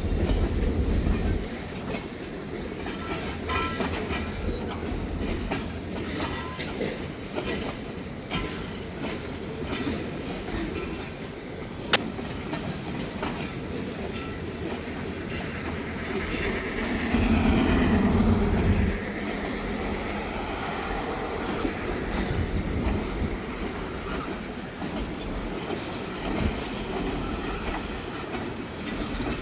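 Freight train cars rolling past, wheels clicking and clacking over the rail joints with a steady rumble, a sharp click about twelve seconds in and a louder rumble for a couple of seconds just past the middle.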